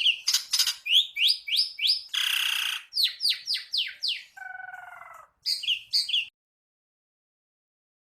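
Yellow-fronted canary (mozambique) singing a shrill, sharp song: quick runs of high sweeping notes broken by buzzy and lower, harsher notes. It stops abruptly about six seconds in.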